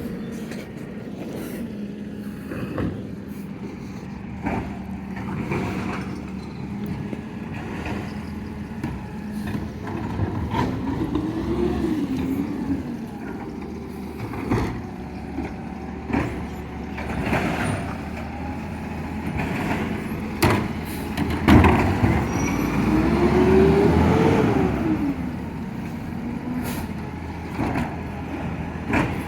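Garbage truck's engine running with knocks and clanks throughout; its pitch rises and falls twice, the second time loudest.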